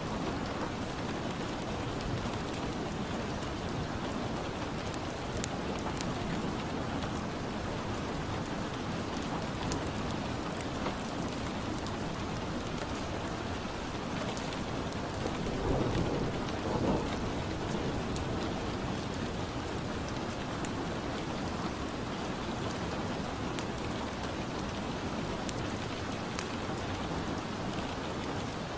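Steady rain ambience, an even hiss of rain falling on a surface, with one brief louder low rumble about halfway through.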